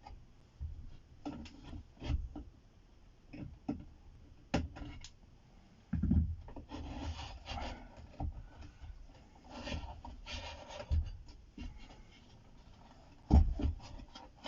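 Irregular clicks, knocks and rubbing from hands and tools working inside an opened studio monitor, with a louder knock about six seconds in and another near the end.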